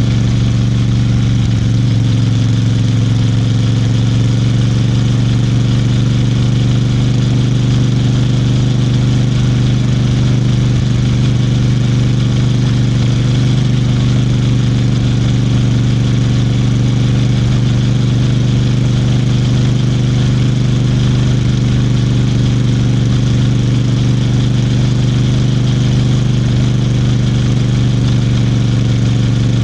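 Royal Enfield Bear 650's 648 cc parallel-twin engine running at steady revs, with a slight change in pitch in the first couple of seconds, then holding even.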